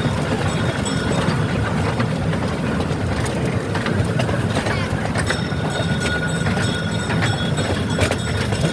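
Passenger train heard from on board: a steady low rumble with scattered clicks and a faint high whine that grows clearer about halfway through.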